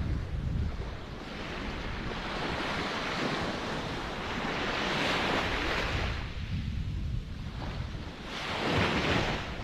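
Ocean waves breaking and washing in, the surf swelling and ebbing with two louder washes, one about halfway through and one near the end, with some wind rumble on the microphone.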